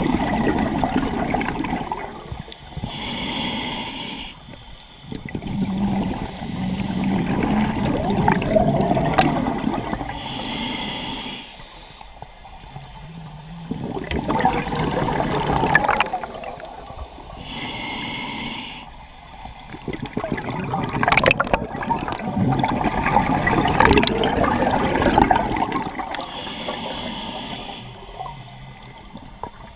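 Scuba diver breathing through a regulator underwater: a short hiss on each inhale, then a long bubbling rush of exhaled air, about four breaths, one every seven or eight seconds.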